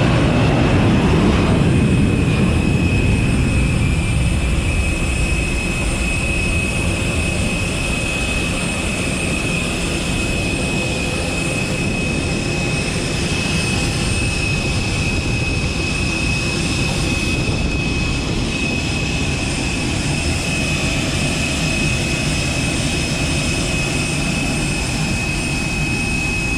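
Steady rush of a parked Airbus A320 on stand with a thin high whine held throughout, typical of its auxiliary power unit and air conditioning running. It is a little louder with more low rumble for the first couple of seconds, then settles.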